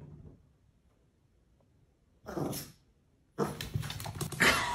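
A dog's voice: one short call about two seconds in after a pause, then a louder, noisier stretch with clicks from about three and a half seconds.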